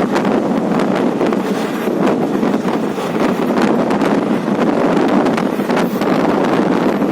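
Wind buffeting the microphone: a loud, steady rushing noise with frequent short gusts.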